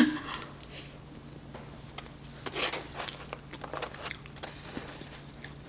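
Faint eating sounds: small clicks and rustles of food and its container being handled between bites, busiest about two and a half to three seconds in, over a faint steady hum.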